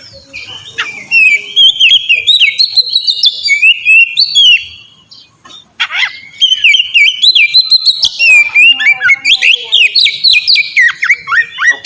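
Oriental magpie-robin (kacer) singing loudly: a fast run of varied whistled phrases, chirps and sliding notes, breaking off for about a second midway before starting again.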